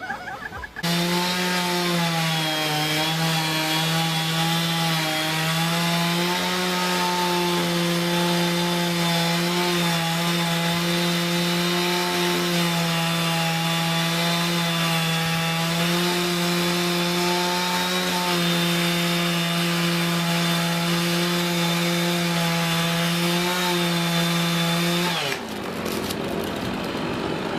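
Chainsaw running at high revs, cutting wood, its steady high note dipping slightly in pitch now and then. It starts about a second in and cuts off suddenly near the end.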